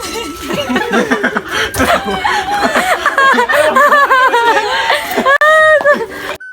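People laughing hard in loud, repeated bursts, ending in a higher, held squeal of laughter near the end.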